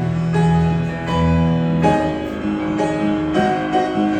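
Live band music between sung lines of a slow ballad: keyboard chords over held bass notes, a new chord struck about every second and a half.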